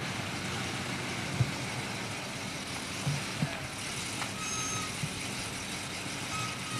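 Stock 1970 Buick GS Stage 1 455 V8 idling with a steady low rumble, with a few sharp clicks over it, the loudest about a second and a half in.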